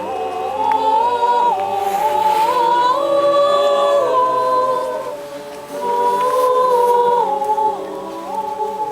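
A choir singing in harmony, several voices holding long notes that move together from step to step.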